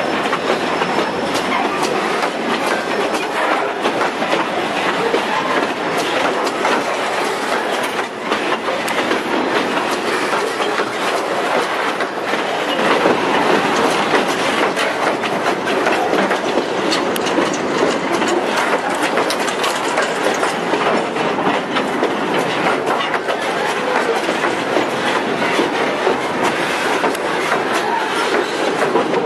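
Freight train wagons rolling past close by: a steady rattling rumble with a continual clicking of wheels over the rails.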